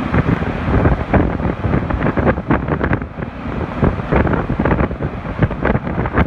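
Hurricane-force wind in the eyewall of a major hurricane, blasting over the microphone in rising and falling gusts, with many short rattles and knocks mixed into the rush.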